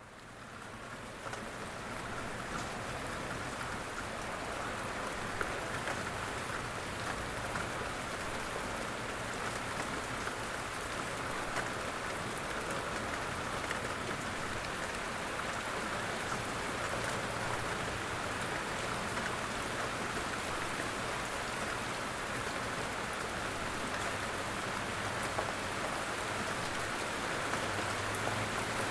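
Steady rain falling, a dense even patter with scattered individual drop ticks, fading in over the first couple of seconds.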